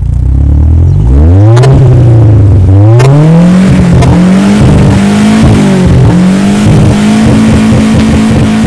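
Fiat Tempra Turbo Stile's turbocharged 2.0-litre four-cylinder engine being revved. It climbs from idle about a second in, rises again and is held at high revs with brief dips, with a few sharp cracks along the way.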